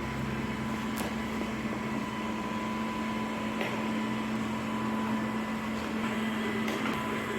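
Robot vacuum cleaner running with a steady motor hum and a thin whine, with a few faint ticks.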